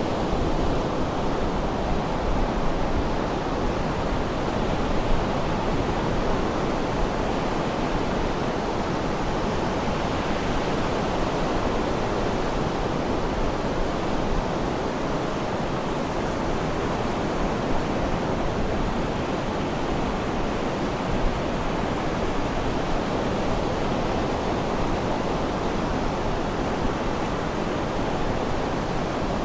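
Sea surf washing steadily, an even rush of water noise with no distinct breaks between waves.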